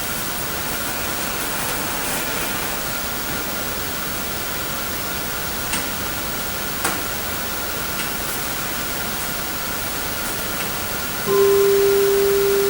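Steady hiss from a camera microphone with a few faint clicks. About 11 seconds in, a crystal singing bowl starts to sing: one pure, steady tone that holds.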